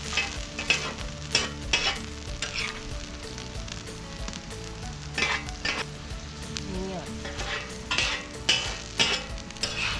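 Food frying and sizzling in a pan over a campfire, with repeated sharp scrapes and knocks as it is stirred.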